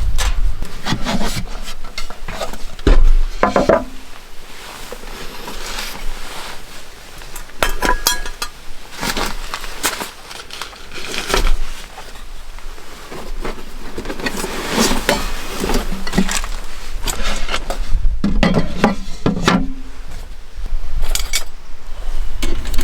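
Camp cookware and utensils being handled: a string of separate clinks, clatters and knocks, with a few short ringing tones among them.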